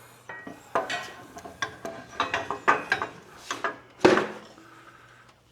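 Metal hitch parts, spacers and bolts clinking and knocking as they are handled and fitted into place, with a louder knock about four seconds in.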